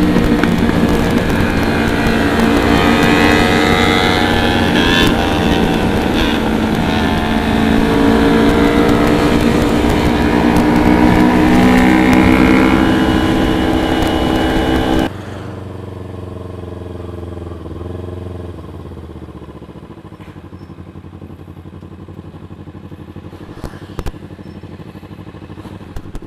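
Motorcycle engine running under way, its pitch rising and falling as it revs. About fifteen seconds in the sound drops suddenly to a quieter engine that winds down in pitch and settles.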